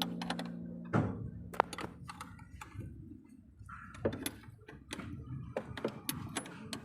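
Background music fading out in the first second, then scattered light clicks and knocks of hand work on the car, with one sharp knock about a second in.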